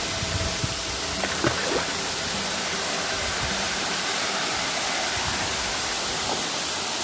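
Waterfall rushing as a steady, even roar of falling water.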